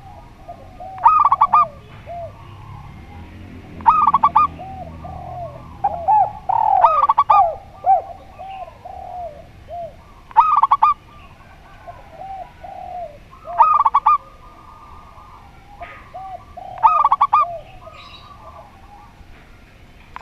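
Spotted dove and zebra dove cooing together: loud bursts of quick coos repeating about every three seconds, with runs of lower, softer coos in between.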